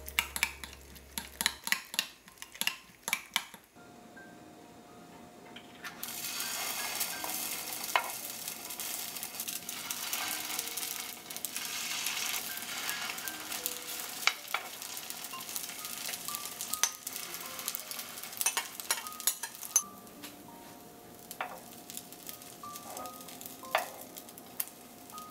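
For the first few seconds a spoon clicks rapidly against a glass bowl as an egg is beaten into the tofu-vegetable mixture. Then spoonfuls of the batter sizzle in hot oil in a frying pan, with occasional clicks of the spoon and spatula against the pan.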